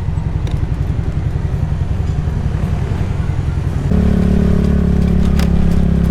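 Motorcycle engine idling with a fast low pulse, then raised to a higher, steady engine speed about four seconds in and held there.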